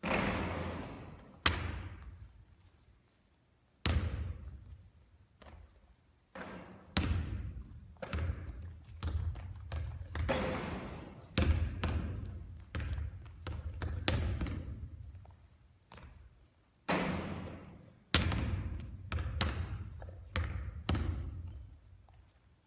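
Basketball shooting practice: a basketball bouncing and thudding on the court, with irregular sharp impacts a second or two apart, each with a short fading ring.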